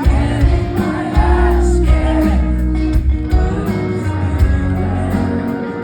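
Live rock band playing loud in a concert hall, recorded from the crowd on a phone: heavy bass, drums and guitar, with a voice singing.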